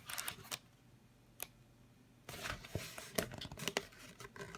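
Paper rustling and clicks of a picture book being handled and its pages turned, with a sharp click about a second and a half in and a longer stretch of rustling in the second half.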